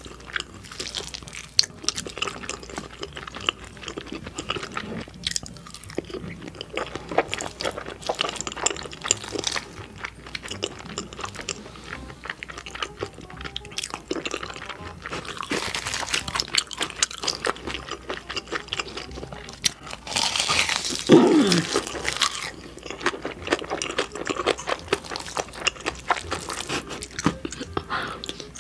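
Close-miked eating: a person chewing and smacking on mouthfuls of spicy red rice, with the clicks and scrapes of a metal spoon in a foil tray. About two-thirds of the way through there is a louder, longer breathy sound.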